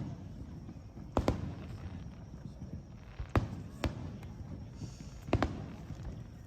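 Fireworks bursting: a handful of sharp bangs at irregular intervals, each ringing on briefly, over a low steady background.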